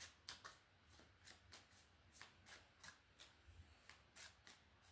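Tarot cards being shuffled by hand: faint, irregular card clicks and flicks, a few a second.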